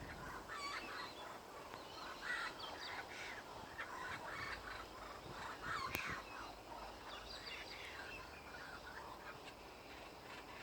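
Birds calling, many short calls overlapping without pause, with one sharp click about six seconds in.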